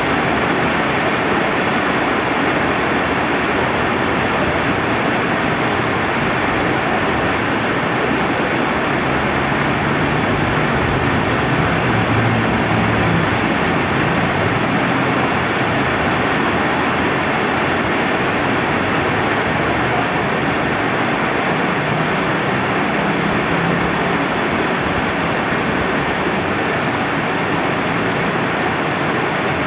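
Rain falling by a flowing river: a steady, unbroken rush of water.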